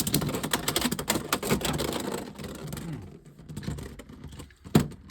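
Rapid plastic clicking and rattling from handling Beyblade X tops and launcher parts. It fades out about three seconds in, and there is one sharp click near the end.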